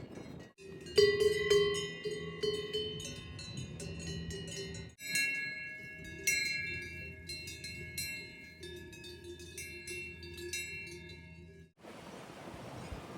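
Several cowbells clanking irregularly at different pitches, strikes overlapping and ringing on. The sound cuts off abruptly twice and starts again, then near the end gives way to a steady hiss.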